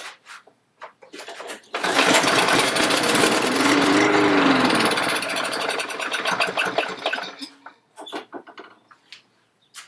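Kohler lawn mower engine pull-started on fuel squirted into the carburettor: it catches about two seconds in, runs loudly for about five seconds, then dies away, followed by a few light clicks. It is the start-then-stall that the mechanic puts down to water in the carburettor.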